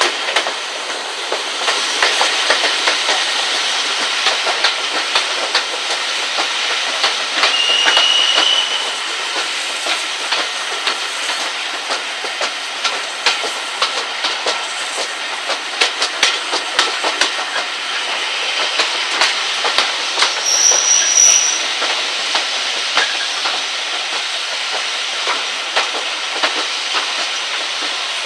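Passenger train carriage running along the line, heard from an open window: a steady rush of air and running noise, with wheels clicking over rail joints. Two brief high wheel squeals come about eight seconds in and again about twenty seconds in.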